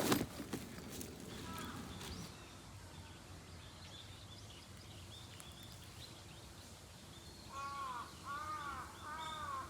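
A crow cawing, a quick run of about five caws over the last two seconds, with faint high chirps of small birds before it. A short rustling knock sounds right at the start.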